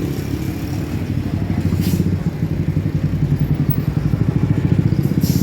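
A motorbike engine running with a rapid, even putter.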